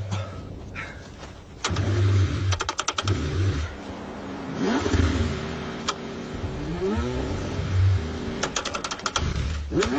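Car engine being cranked by its starter in freezing cold, turning over in several uneven bursts with rapid clattering clicks, struggling and not catching.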